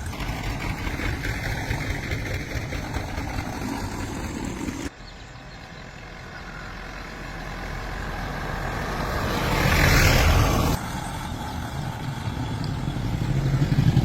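An engine running, rising in level in places and breaking off abruptly twice.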